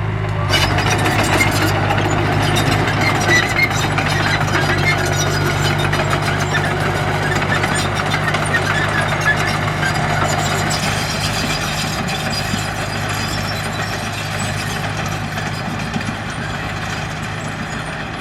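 Diesel engine of heavy earthmoving equipment running steadily, with a low, even hum and mechanical clatter; it grows slightly quieter in the second half.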